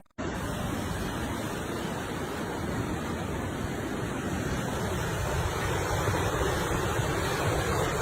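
Steady rushing noise of storm wind and surging water, even and unbroken, starting just after a brief cut-out.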